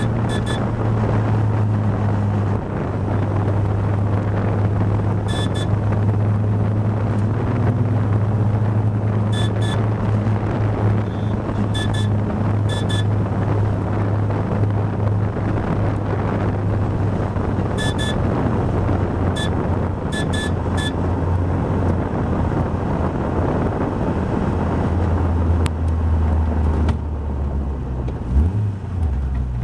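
Caterham Seven's Ford Sigma four-cylinder engine running steadily at moderate speed, heard from inside the open cockpit with wind and road noise; its note drops lower near the end as the car slows. Short high electronic beeps come in pairs now and then, with a brief rise and fall in pitch just before the end.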